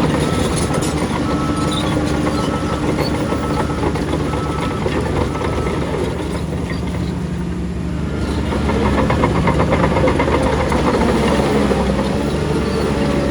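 Heavy diesel earthmoving machinery running, with a reversing alarm beeping about one and a half times a second for the first few seconds. A rapid clatter runs under the engine, and its pitch rises in the second half.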